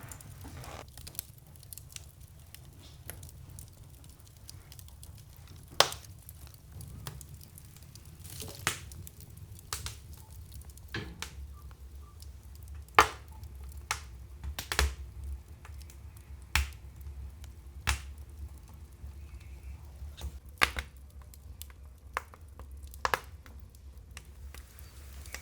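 Wood fire crackling, with a steady low rumble and about a dozen sharp pops scattered at irregular intervals, the loudest about six and thirteen seconds in.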